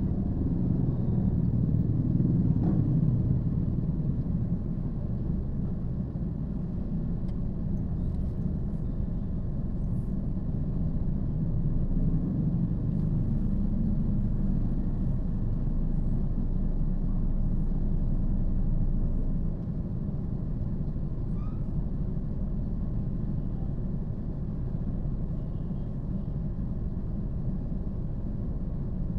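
Steady low rumble of a car on the move: engine and road noise, easing slightly about two-thirds of the way through.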